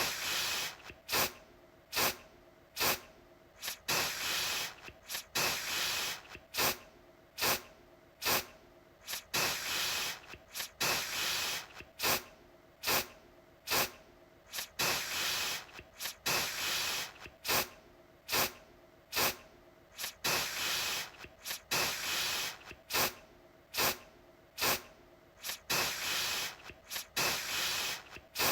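Aerosol deodorant can sprayed in short bursts, about one a second, each a hiss that starts sharply and fades quickly; now and then a burst is held a little longer.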